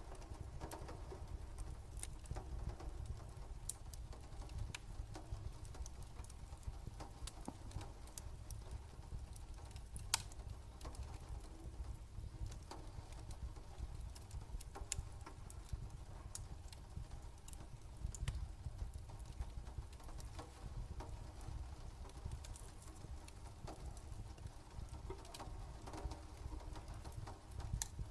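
Layered night ambience of rain pattering and a crackling fire: a low steady rumble with scattered sharp crackles, the loudest about ten seconds in.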